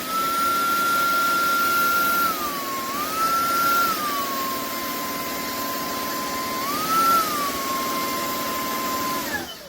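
Shark PowerPro cordless stick vacuum running, its motor whine stepping up in pitch as it is switched to maximum power. The whine drops back and rises twice more, then winds down and cuts off near the end.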